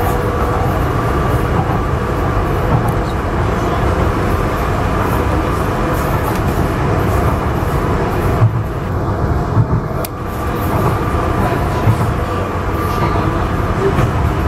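Docklands Light Railway train running, heard from inside the carriage: a steady rumble of wheels on the rails with a faint steady motor whine. The higher hiss thins out for about a second and a half just past the middle.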